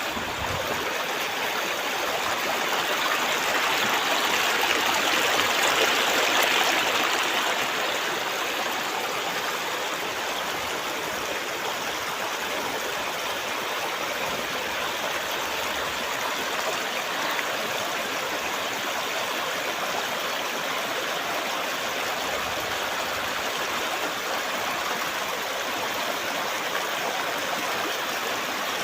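Clear river water running over stones: a steady rushing that swells louder a few seconds in, then settles.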